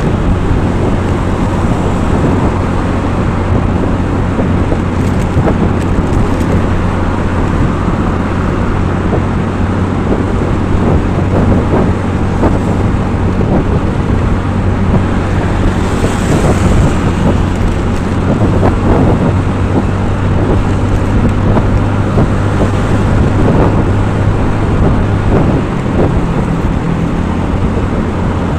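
Steady road-vehicle noise, engine hum and road rumble, with wind on the microphone.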